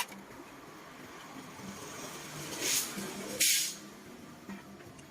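A short burst of hissing spray about three and a half seconds in, over a low steady workshop background.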